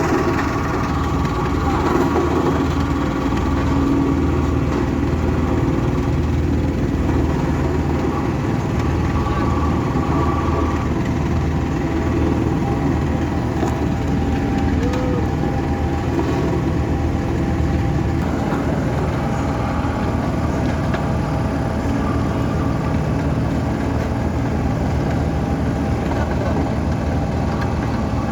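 Heavy diesel engine running steadily, a continuous low rumble that rises and falls slightly, typical of road-construction machinery at work.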